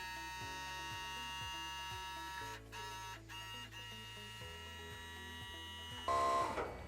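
Electric hydraulic pump of an XCMG off-highway dump truck's cab-tilt system running with a steady hum as the cab is raised. A brief louder sound comes about six seconds in.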